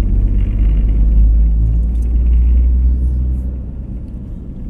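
Low rumble of a vehicle driving along a road, louder for the first three seconds or so and then easing off.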